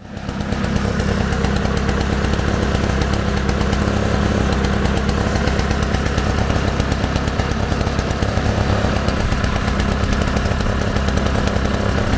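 Briggs & Stratton 096722 two-stroke engine of a Ransomes Bob Cat push mower, running steadily with a fast, even firing beat.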